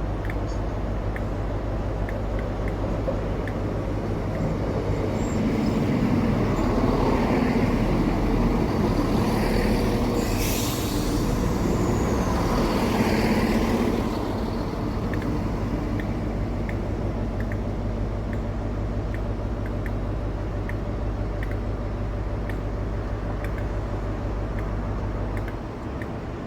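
A train passing by, swelling to its loudest about ten seconds in and dying away a few seconds later, over a steady low hum.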